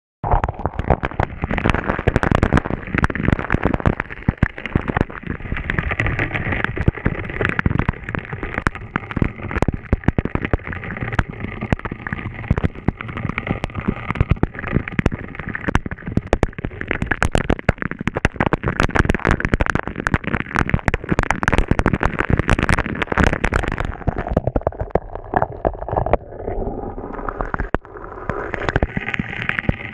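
Waterfall water falling and splashing, heard as a loud, dense crackling spatter, with spray striking the microphone.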